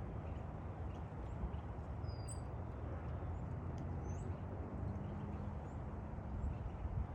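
A sparrow giving faint, high, short calls every second or so, some sliding downward, over a steady low rumble.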